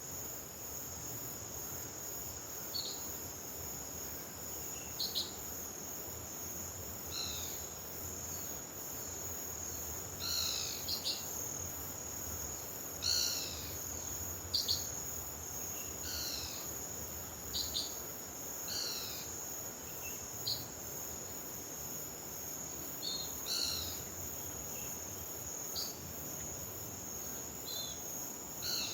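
A steady high-pitched insect trill, typical of crickets, runs throughout. Over it a bird gives short, falling calls every second or two.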